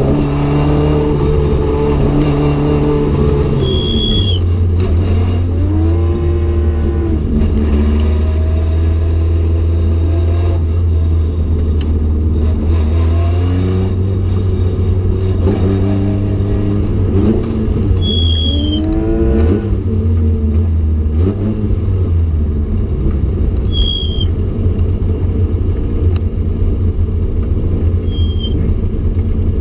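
Mk.1 Ford Cortina GT's four-cylinder engine running hard at racing revs, its pitch repeatedly climbing through the gears and dropping off, with a few short high squeaks.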